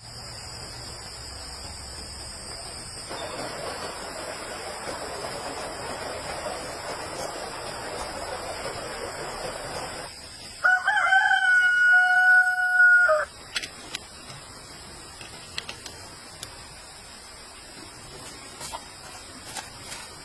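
A rooster crowing once, one long call of about two and a half seconds partway through, over a low steady hiss, with a few faint clicks afterwards.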